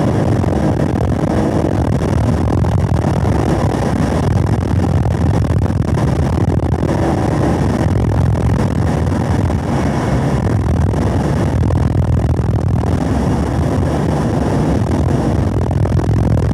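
Chevrolet Camaro SS 1LE's 6.2-litre V8 running hard at track speed, over steady wind and tyre noise. The car goes up from fourth to fifth gear and then holds at lower revs.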